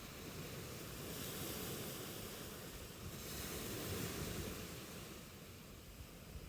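Ocean waves washing on a shore: a steady hiss of surf that swells and eases, louder about a second and a half in and again around four seconds.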